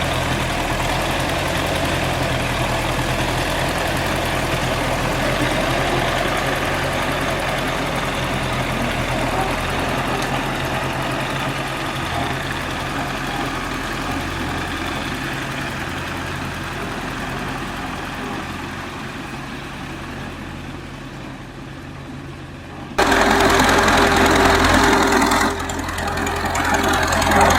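An engine running steadily and gradually fading. About 23 seconds in, it cuts abruptly to a louder engine sound.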